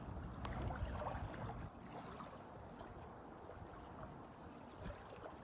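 Small waves lapping and gurgling at the water's edge, with a low rumble of wind. It is a little louder for the first couple of seconds, then settles quieter.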